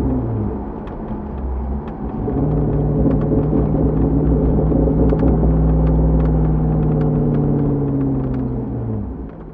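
2005 Corvette C6's LS2 V8 running through a Borla exhaust while driving, heard from a microphone in the trunk. The engine note drops right at the start, holds a steady pitch under light throttle for several seconds, then falls away near the end as the car slows.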